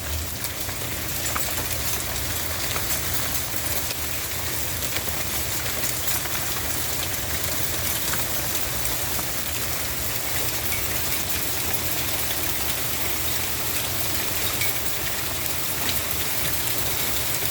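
Pea-sized hail falling with rain: a steady hiss full of small, scattered ticking hits.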